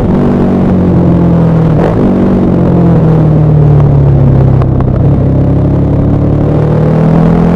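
KTM 1190 Adventure R's V-twin engine and exhaust running while riding downhill. The note sags slowly, then steps up in pitch about two seconds in and again about five seconds in.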